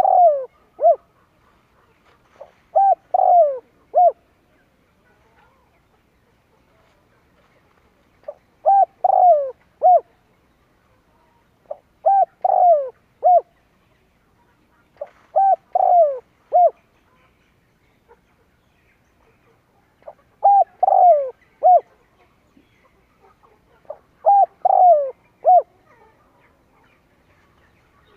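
Spotted dove cooing: seven phrases a few seconds apart, each a short run of coos with one longer note sliding down in pitch, with a longer pause about four to eight seconds in.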